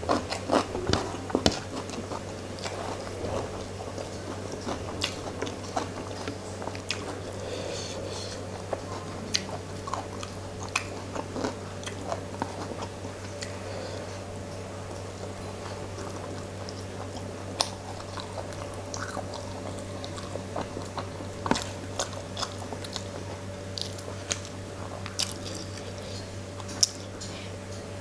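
Close-miked mouth sounds of a person eating rice and fish curry by hand: wet chewing with frequent sharp smacks and clicks, over a steady low hum.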